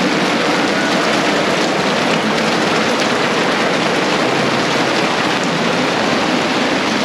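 Heavy tropical rain pouring steadily, a loud, even downpour hissing on the ground and puddles.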